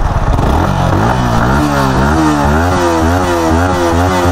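Yamaha MT-15's 155 cc single-cylinder engine revving in quick repeated blips, its pitch rising and falling about twice a second.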